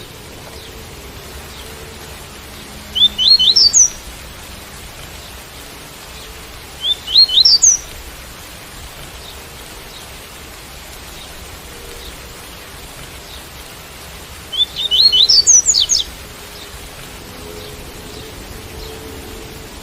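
Double-collared seedeater (coleiro) singing its tui-tui song: three short phrases of quick, high, upward-sweeping notes about three, seven and fifteen seconds in, the last a little longer. Steady rain hiss runs underneath.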